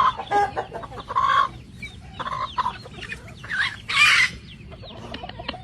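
A bird calling in a series of short, sharp clucking calls, about six of them, the loudest about four seconds in.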